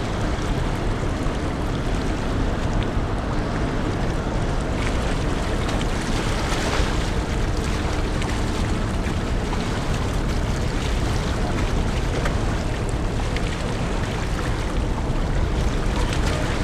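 Steady low rumble and rushing water noise of the ferry Ferry Suou coming into port, with wind buffeting the microphone.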